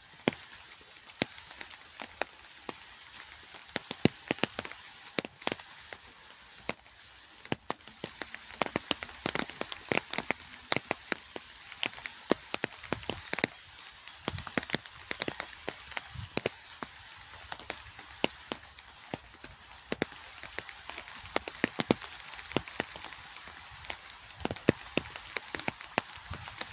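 Rain falling, with a steady hiss and many sharp, irregular ticks of single drops landing close to the microphone.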